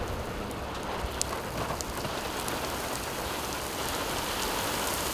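Heavy rain and wind beating on the storm-chase vehicle during a tornado intercept: a steady wash of noise with a few sharp drop impacts in the first couple of seconds.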